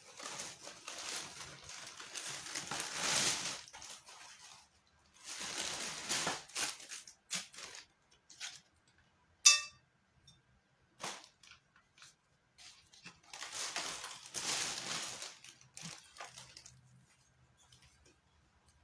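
Close-up eating and food-handling noise: three long stretches of crackly crunching with small clicks between them, and one sharp ringing clink about halfway through, like a utensil or dish being struck.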